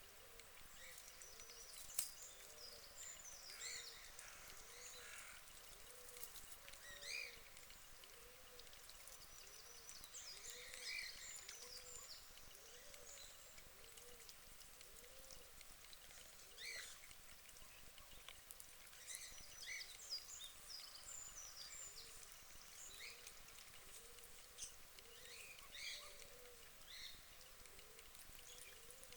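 Faint birdsong at a pond: small birds chirping and twittering on and off, over a soft low call that repeats about once a second.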